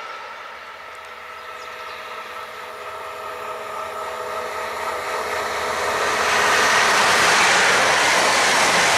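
A red DB Regio passenger train approaches at speed and passes close by. Its wheel and rail noise grows over a few seconds, then becomes a loud, steady rush from about six seconds in as the coaches go by.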